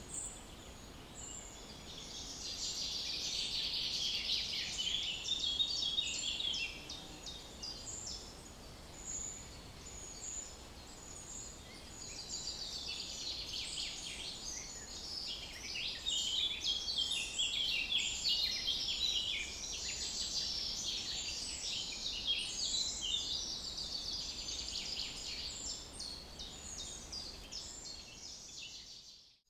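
Small birds chirping and twittering in a dense chorus, in two long spells, over a low steady outdoor background. The sound cuts out abruptly near the end.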